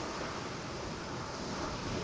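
Ocean surf breaking on rocks, heard as a steady wash of noise with no single distinct crash.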